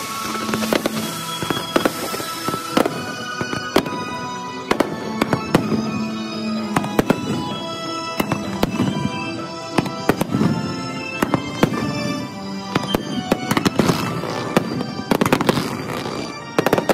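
Aerial fireworks bursting, many sharp bangs and crackles in quick succession and thickest near the end, over music that plays throughout; the show runs at double speed.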